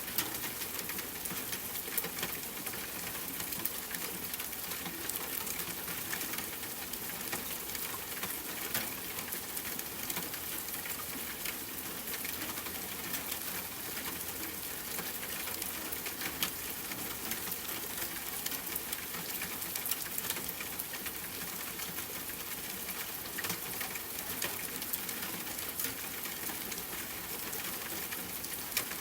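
Steady rain falling on a tent, mixed with campfire crackling: many short, sharp pops scattered through an even hiss.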